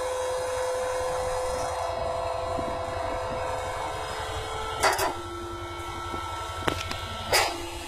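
A baling machine running with a steady mechanical hum and low rumble. The hum's pitch drops about five seconds in, with a sharp knock there and two more near the end.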